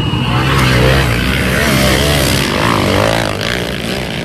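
Pit bike engines revving hard, their pitch rising and falling through the throttle changes.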